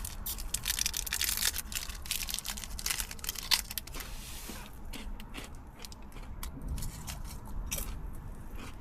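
Close crinkling and rustling, as of material being handled, dense for about four and a half seconds, then thinning to scattered clicks and rustles.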